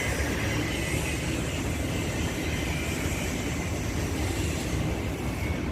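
Steady rumble and hiss of city street traffic.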